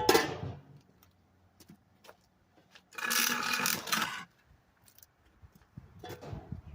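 Wood chips being handled on a 1/4-inch screen: a sharp clatter at the start, scattered small ticks, then a rough rustling scrape for about a second near the middle as the chips are shaken and pushed across the mesh.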